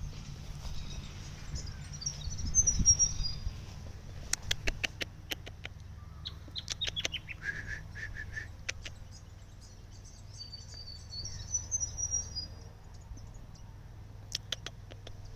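Small birds chirping in short high phrases, with one run of notes falling in pitch near the middle. Scattered sharp clicks and a steady low rumble run underneath.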